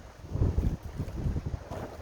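Strong gusty wind buffeting the microphone: an irregular low rumble that swells and drops, with the strongest gust about half a second in.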